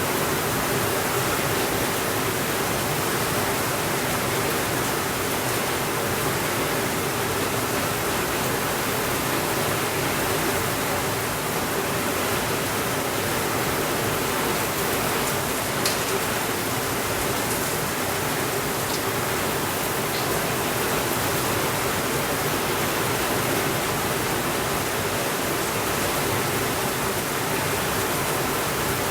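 Steady heavy rain on a window, an even wash of noise, with a few faint crackles from a wood fire about halfway through.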